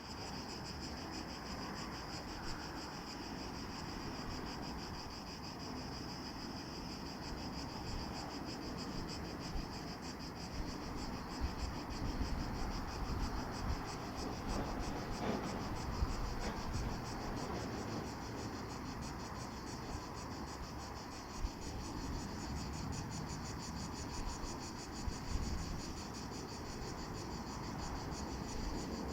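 Cicadas buzzing steadily in a high, finely pulsing drone, over a low, uneven rumble with a few small bumps.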